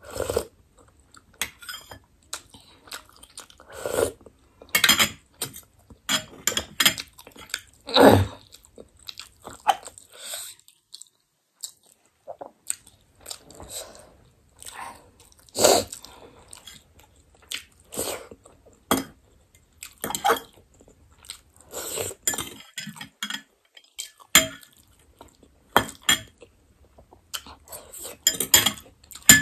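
Close-miked chewing and mouth smacking while eating chicken momo dumplings: irregular short wet clicks and smacks, with a brief lull near the middle.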